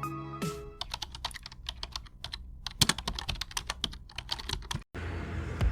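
A fast, irregular run of sharp clicks, several a second, after the last notes of a short musical phrase fade out; the clicking stops with a brief dropout near the end.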